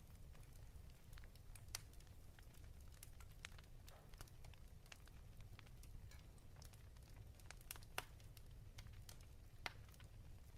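Faint fireplace fire crackling: scattered sharp pops and snaps, a few louder ones, over a steady low rumble.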